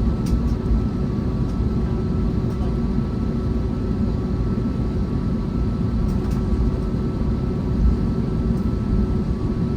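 Steady cabin rumble and hum of an Airbus A321neo, its Pratt & Whitney PW1100G geared turbofans running at low power before takeoff, with a few faint constant tones over the rumble.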